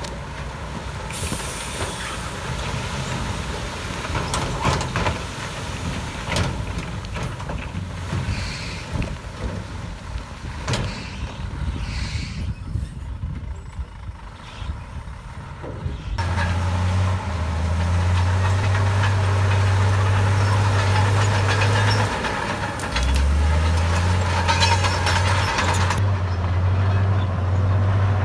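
Heavy diesel earthmoving machinery at work: engine running with scattered knocks and clanks for the first half, then a loud, steady low engine drone from about halfway, which shifts slightly in pitch a few seconds later.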